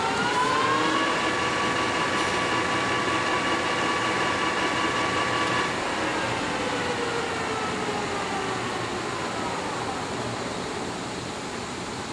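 Poreba TPK-80 engine lathe's headstock gearing whining as the spindle runs in reverse at about 250 RPM. The whine rises in pitch as it comes up to speed, holds steady, then falls away about six seconds in as the spindle is stopped and coasts down.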